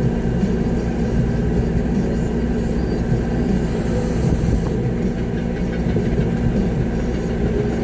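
Concrete mixer truck's diesel engine running steadily, heard from inside the cab during a concrete pour.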